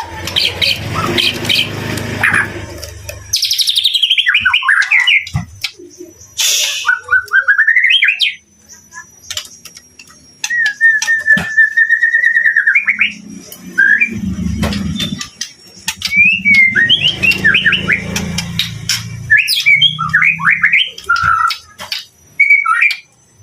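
White-rumped shama (murai batu) singing a varied run of whistled phrases, quick trills and chatters, with one long steady whistle about ten seconds in.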